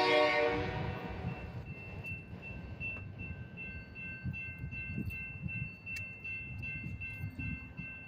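The tail of a diesel locomotive's air horn chord fading out in the first second, then the low rumble of the passing train. From about two seconds in, a high, steady ringing of a few tones, like a grade-crossing warning bell.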